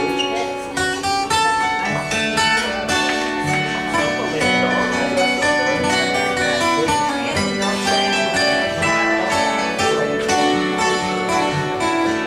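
Live acoustic duo playing an instrumental piece on plucked string instruments led by guitar, with a stream of ringing notes at changing pitches over sustained lower notes.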